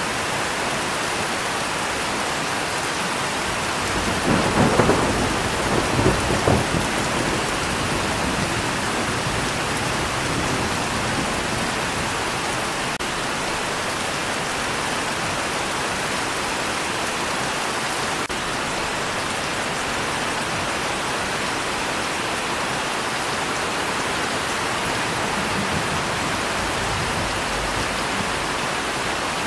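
Steady rain falling, with a rumble of thunder that swells about four seconds in, peaks twice and dies away within a few seconds.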